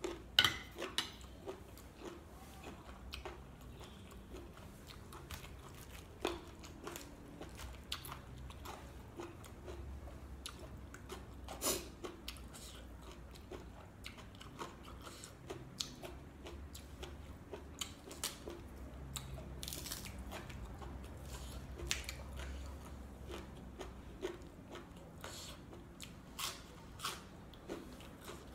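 A person chewing and biting through mouthfuls of spicy glass noodle salad with boneless chicken feet, heard close up as irregular crunchy clicks and soft squishes.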